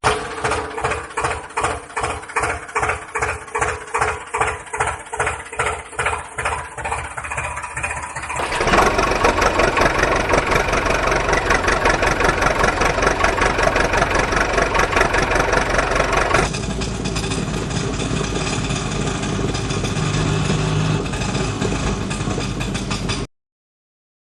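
A vehicle engine runs with slow, even pulses, about two and a half a second. About eight seconds in it turns louder and busier, as if revved or under load. It settles a little around sixteen seconds and cuts off suddenly near the end.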